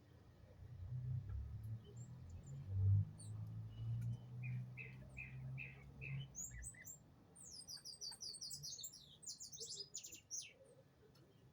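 Small birds chirping: a short run of about five mid-pitched notes, then a quick volley of high chirps in the second half. A low rumble sits under the first half, loudest about three seconds in.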